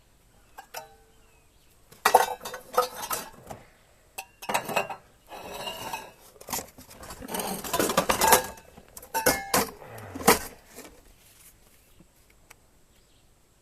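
Cups, cutlery and cookware clattering and clinking in repeated bursts as they are rummaged through and gathered up.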